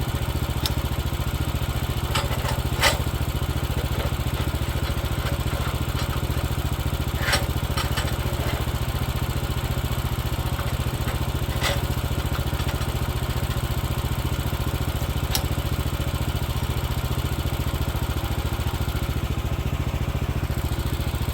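Woodland Mills HM130Max sawmill's engine running steadily, with a few sharp knocks spread through, the loudest about three seconds in.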